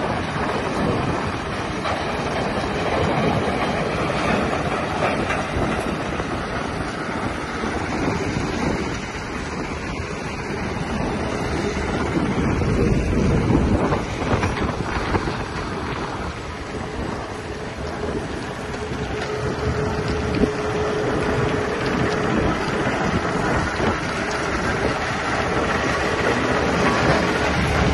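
Fabo FTS 15-60 tracked vibrating screen running: a steady, loud machine noise from the plant's engine and vibrating screen.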